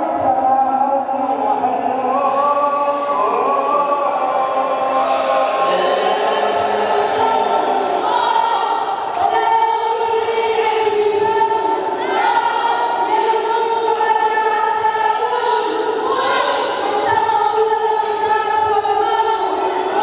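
A group of voices singing a melody together, holding long notes and moving from note to note without a break.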